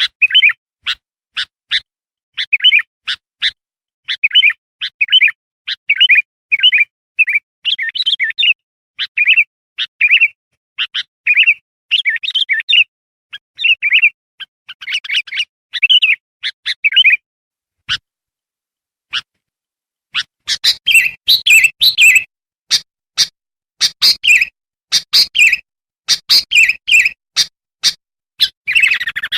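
Sooty-headed bulbul (kutilang) singing, a run of short, bubbly chirps repeated about once or twice a second. The song breaks off for a few seconds after about 17 seconds, then resumes faster and sharper.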